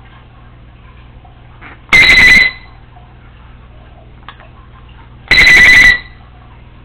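Congo African grey parrot mimicking an electronic alarm beep: two loud, held, beep-like calls about three seconds apart, each about half a second long with a slight waver.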